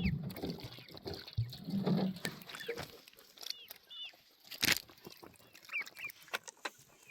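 Chickens calling: many short high peeps with a few low clucks, and one sharp knock about four and a half seconds in.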